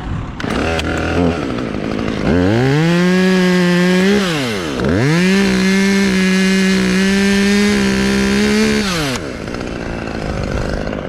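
Chainsaw throttled up from idle about two seconds in and held at full speed, easing off briefly near the middle and back up, then dropping to idle near the end: a small drop cut in a white oak limb.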